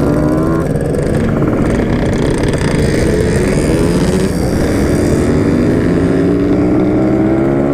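Yamaha RX King two-stroke motorcycle engine running under way, its note climbing slowly as the bike gathers speed.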